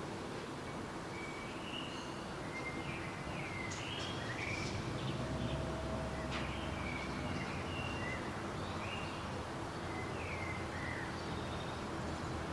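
Several songbirds chirping in short, scattered notes, some sliding downward, over a steady outdoor background hiss. A low rumble comes in about five seconds in.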